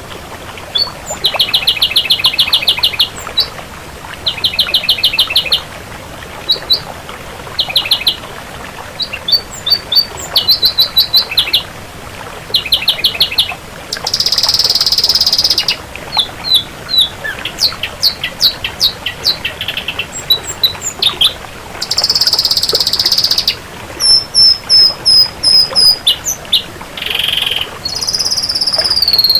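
Ashy drongo singing a varied song: rapid trilled phrases, short whistled notes and falling notes, broken by two longer harsh, hissy notes about a third and three-quarters of the way through.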